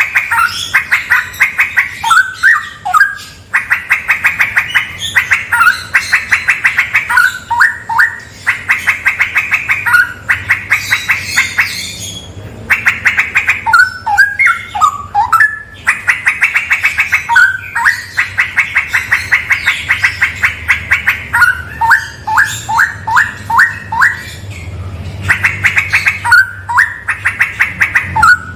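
Straw-headed bulbul (cucak rawa) singing loudly and almost without pause: long trains of rapid, clipped repeated notes alternating with short, liquid warbled phrases, broken by a few brief gaps.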